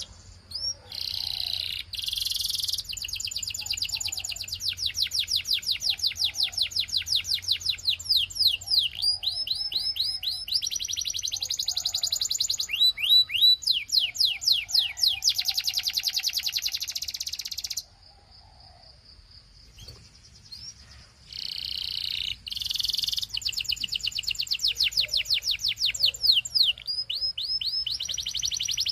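Belgian canary singing: long runs of fast, rapidly repeated trills and rolling phrases. The song breaks off for about three seconds past the middle, then resumes.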